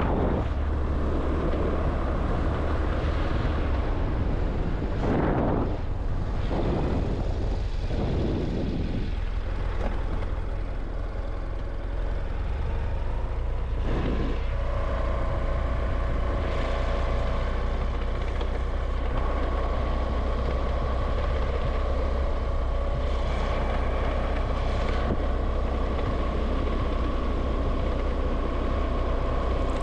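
Moving vehicle on a road: a steady low rumble of engine and tyre noise, with several brief whooshes between about five and nine seconds in and another around fourteen seconds.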